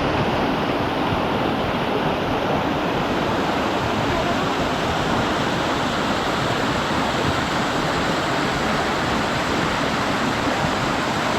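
Waterfall: a steady rush of falling water, which swells as it begins and then holds even.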